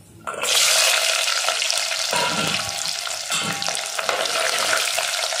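Whole shallots dropped into hot oil in a clay pot, setting off a sudden loud sizzle about half a second in. The frying keeps sizzling steadily as a steel spoon stirs them.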